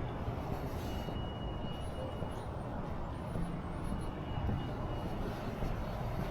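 Steady low rumble of vehicle traffic, with a faint high steady whine that comes and goes twice and faint wavering high squeaks in the middle.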